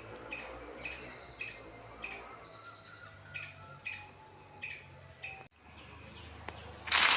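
A bird calling in short, repeated chirps, about two a second, over a steady high insect drone; the sound cuts off abruptly a little over five seconds in. Near the end a loud crackling rustle begins.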